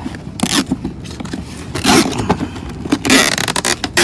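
A small accessory package being torn open by hand: rustling and ripping of the packaging in several rasps, three of them louder, with small crackles between.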